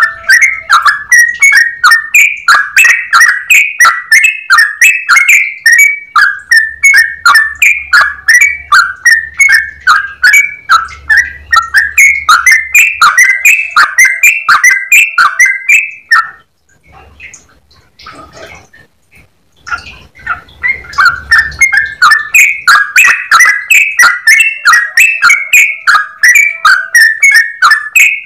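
Yellow-vented bulbul (trucukan) singing a long, fast run of short, bubbly whistled notes. The run breaks off about halfway through for a few seconds, then starts again.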